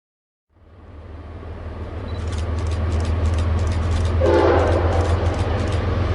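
Norfolk Southern diesel locomotive approaching with a steady low engine rumble that grows louder, with sharp clicks from the rails. Its air horn sounds about four seconds in for roughly a second, then again near the end.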